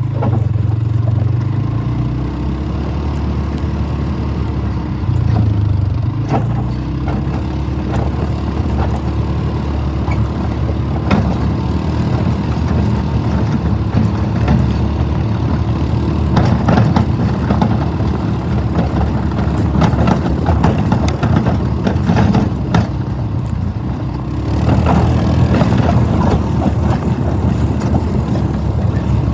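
Four-wheeler (ATV) engine running while towing a wagon, its pitch shifting now and then, with frequent knocks and rattles from the wagon.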